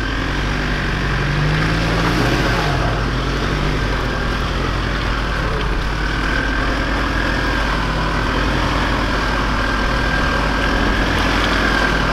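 Holden Colorado ute's engine running at low revs as it crawls over rough, rutted dirt track, with a brief rise and fall in revs about two seconds in.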